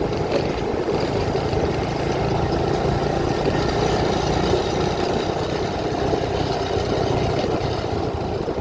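Steady vehicle engine and road noise, unchanging throughout.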